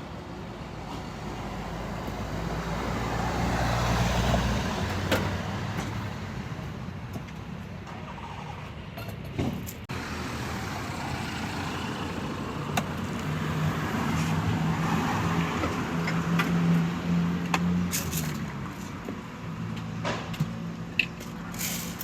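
Road traffic passing close by: one vehicle builds up and passes about four seconds in, and another engine's low hum passes later, with a few light clicks and knocks along the way.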